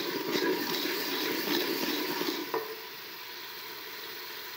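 Onions and garlic sizzling in hot oil in an aluminium pot while a spoon stirs them. The sound drops to a quieter sizzle about two and a half seconds in, just after a light knock.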